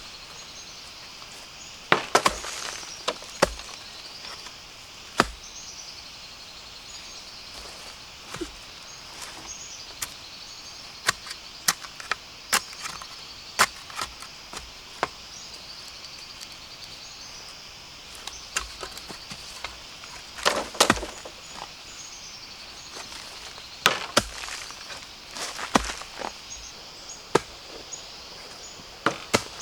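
Irregular sharp chops and snaps, a couple dozen of them at uneven intervals, from work on bamboo while harvesting shoots. A steady high-pitched insect chorus runs behind them.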